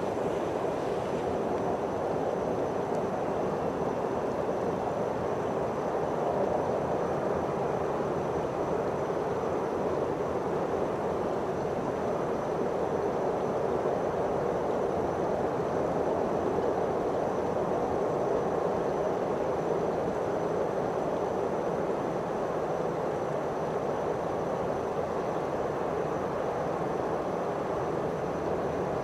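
Distant electric train running across a stone viaduct: a steady, even rumble with no distinct clanks or horn. A faint high-pitched whine runs under it.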